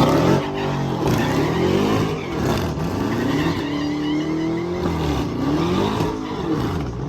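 A car engine with a loud exhaust revved hard several times, its pitch climbing, holding and falling, with sharp pops from the exhaust as it spits flame.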